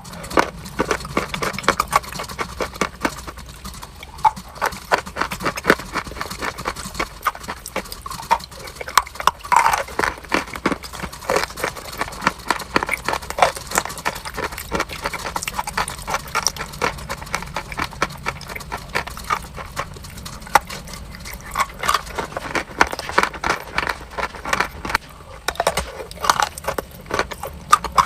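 A person biting and chewing crunchy chalk close to the microphone: a dense, irregular run of crisp crunches, several a second.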